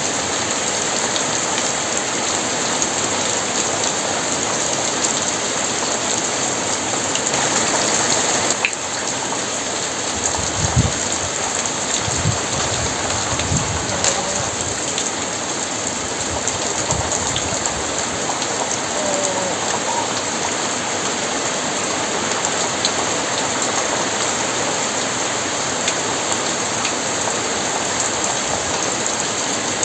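Very heavy rain falling steadily in a dense, even hiss, with a few brief low thumps about ten to seventeen seconds in.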